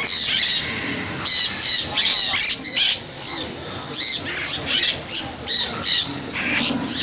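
Parrots squawking: a rapid series of short, high-pitched calls, a dozen or so, sometimes two or three a second.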